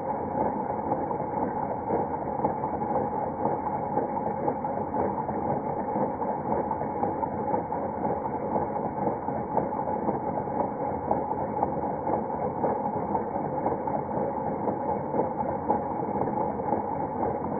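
Custom LEGO inline-four engine driven by a LEGO M motor, running steadily with its plastic pistons and crank clattering. It sounds muffled, with no treble.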